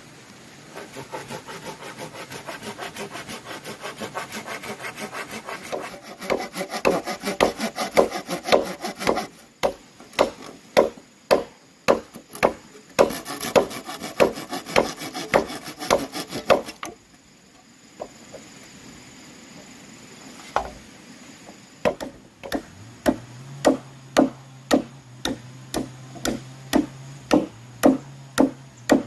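Bamboo being worked by hand: first quick, rapid sawing strokes, then sharp, evenly spaced blows or strokes about one and a half a second apart. A steady low hum joins in the last third.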